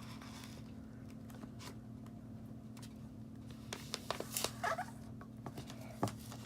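Faint rustling and crinkling of a sheet of paper being folded and creased by hand, a few soft crackles and taps bunched together after the first few seconds, over a steady low hum.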